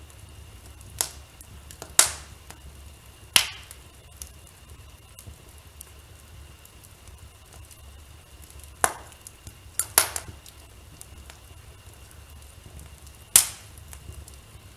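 Fire in a fireplace crackling: faint steady ticking with seven sharp pops. The loudest come about two and three seconds in, around ten seconds, and near the end.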